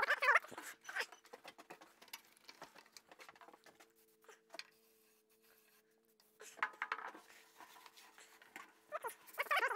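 Scattered small clicks and scrapes from hand work on the metal of a rusty radial arm saw, over a steady low hum. A dog whines briefly at the start and again, louder, near the end.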